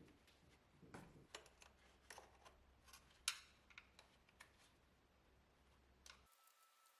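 Scattered light clicks and taps, the sharpest about three seconds in, over faint room hum that drops out near the end.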